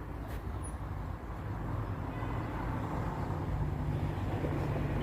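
Road traffic: a vehicle's engine passing by as a low, steady rumble and hum that swells a little over the second half.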